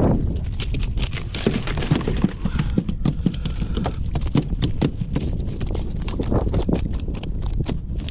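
A quick, irregular series of sharp clicks and knocks, several a second, over a steady low wind rumble on the microphone.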